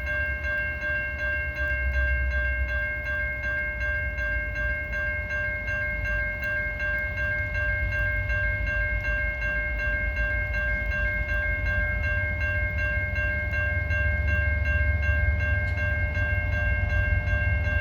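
Railway level-crossing warning bell ringing steadily, with a low rumble underneath that grows louder over the last few seconds as the train nears.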